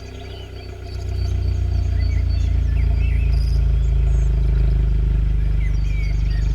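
Skoda Octavia RS 230's turbocharged 2.0-litre four-cylinder running at cold-start idle through a Remus cat-back valve exhaust, a steady deep drone. It is quieter at first, then comes up over about a second and holds.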